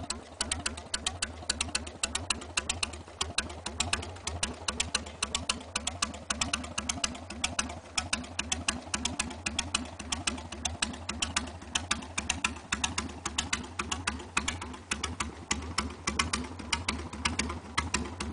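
Harley-Davidson Sportster 883C's air-cooled V-twin idling steadily through a handmade exhaust, with a sharp, even beat of exhaust pulses and a deep rumble underneath.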